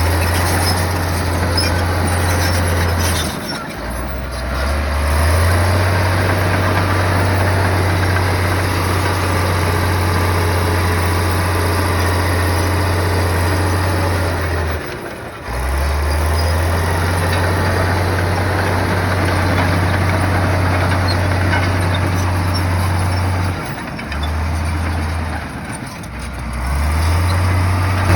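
Heavy bulldozer diesel engine running steadily under load, a deep drone that breaks off and picks up again abruptly three times.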